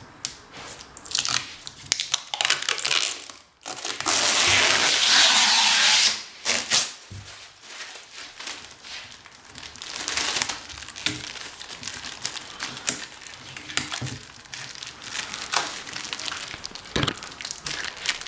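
Plastic shrink-wrap film on new kitchen cabinet doors crinkling and crackling as it is handled, with a loud, steady rasp of film for about two seconds, starting about four seconds in.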